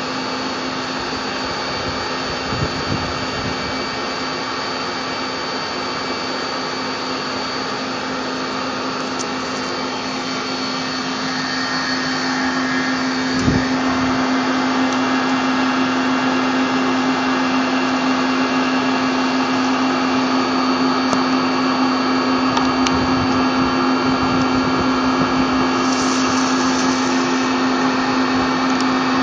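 Doosan PUMA 350 CNC lathe running: a steady machine hum with a constant low tone and a thin high whine. About twelve seconds in it grows louder and stays up, with a single knock shortly after.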